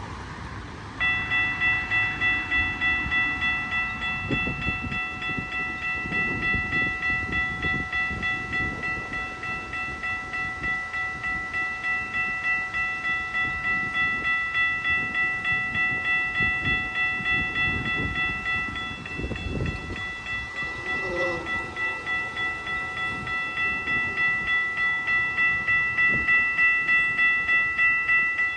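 Level-crossing warning bell ringing in rapid, even strokes over the rumble and rail clatter of a GO Transit train of bilevel cars passing, pushed by a diesel locomotive. The bell starts about a second in.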